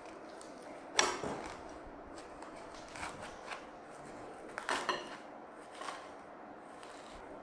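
Scattered handling noises from moss being worked into a vase: a sharp click about a second in, the loudest, a few soft rustles and taps, and a quick cluster of clicks near five seconds.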